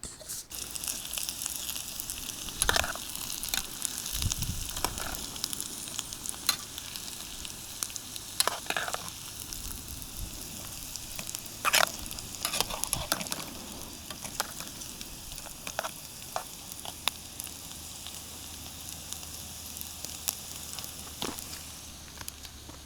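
Food frying in a pan: a steady sizzle with many sharp pops and crackles scattered through it.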